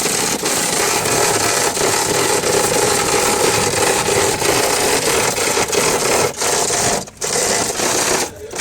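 A power tool running under load with a steady, harsh grinding noise, which breaks off briefly twice near the end.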